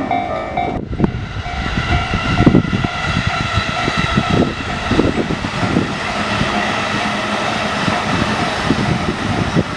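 Electric train passing over a level crossing: a loud rumble with irregular wheel clatter. The crossing's electronic warning bell rings in a repeating on-off pattern at first and fades out after about two seconds, leaving steady tones over the rumble.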